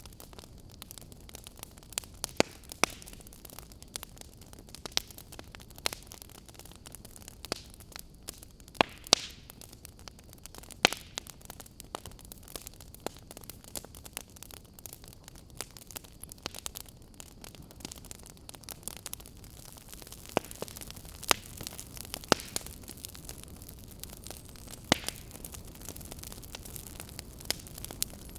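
Fire burning in a fireplace, crackling: a steady low hiss with frequent small snaps and a sharper pop every second or two.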